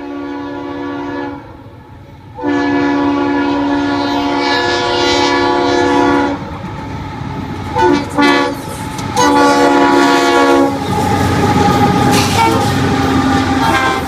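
Ferromex locomotive's multi-note air horn sounding a series of blasts: a long one, two short ones, then another long one. In the last few seconds the horn drops back and the rumble and clatter of the passing train on the rails take over.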